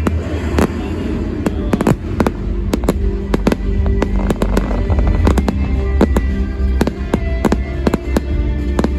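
Fireworks display: many sharp bangs and crackles from bursting fireworks, several a second and irregular, over music with a heavy bass.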